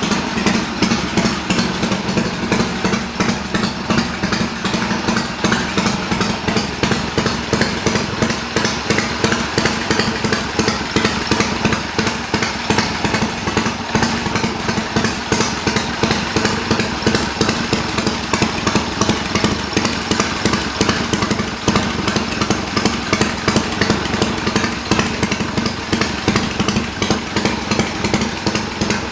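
A Triumph motorcycle engine idling steadily, a rapid and even exhaust beat with no revving, still warming up after a cold start.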